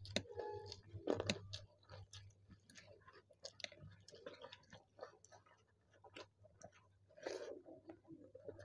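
Close-miked chewing and eating by hand: mouths working on rice and fried vegetable fritters, with many small wet clicks and occasional crunches.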